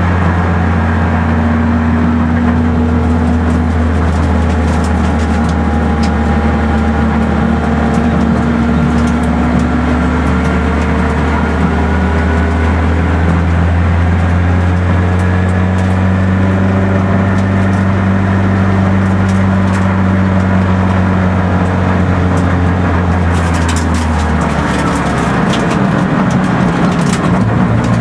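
Peugeot 106 race car's engine heard from inside the cabin, running steadily under load. Its note shifts about four seconds before the end, with a few sharp rattling clicks.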